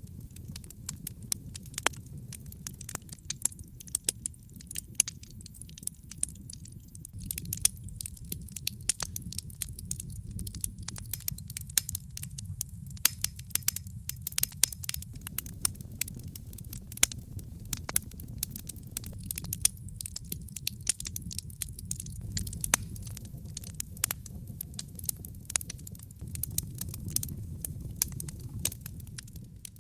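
Wood fire crackling: irregular sharp pops and snaps, some much louder than others, over a low steady rumble of the burning.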